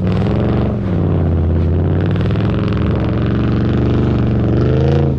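Car engine revving hard during a drift in the snow. Its pitch dips right at the start, holds fairly steady, then climbs briefly and drops again near the end.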